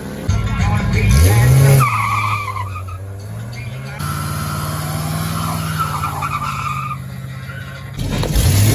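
Drag-racing car engines revving and accelerating hard, with tyre squeal, in several short clips cut together; one engine revs up sharply about a second in.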